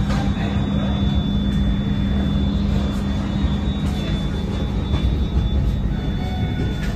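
Steady rumble of a moving Shatabdi Express passenger coach, heard from the vestibule between coaches, with a constant low hum and a few faint clicks.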